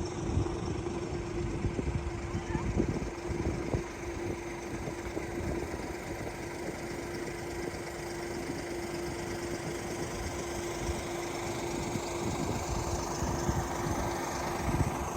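Steady engine and road noise inside a moving vehicle, with a constant low hum.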